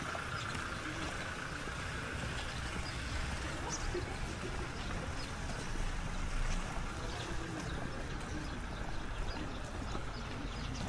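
Steady rain and running water on a wet street, a continuous hiss scattered with small drip ticks, over a low rumble of traffic.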